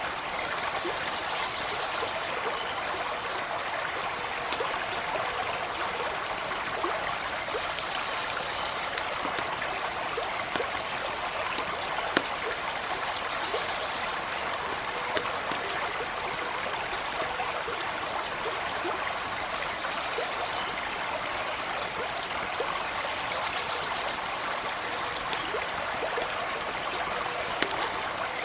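A small stream babbling and trickling steadily, with a campfire crackling in scattered sharp pops.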